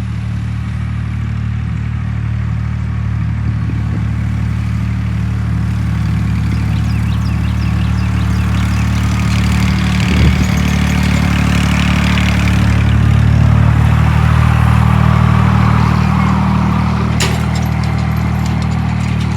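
Diesel engine of a 35-year-old Massey Ferguson tractor running steadily, getting a little louder about two-thirds of the way through, with a sharp click near the end.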